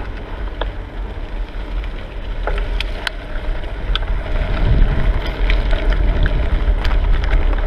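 Wind rumbling on the microphone of a camera riding along on a moving bicycle, with scattered light clicks and rattles.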